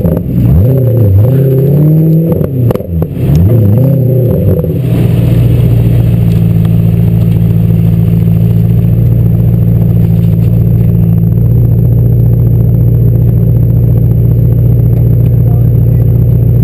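Car engine revved up and down in several quick blips, then settling into a steady idle about five seconds in.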